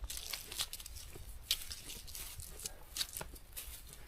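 Footsteps and rustling of someone walking, a crunch or crackle every half second or so at an uneven pace, over a low rumble of wind on the microphone.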